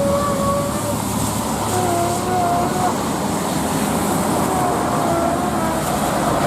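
Jet airliner engines running loud, a steady rush with faint wavering whining tones rising and fading over it.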